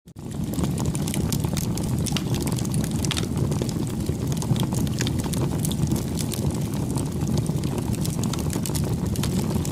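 Campfire burning: a steady low rumble of flames with frequent sharp crackles and pops from the burning wood, fading in right at the start.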